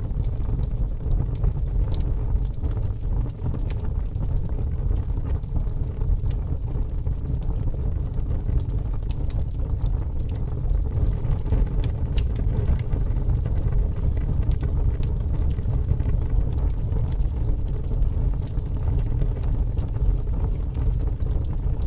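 Crackling fire: a steady low rumble of burning with scattered sharp pops and crackles.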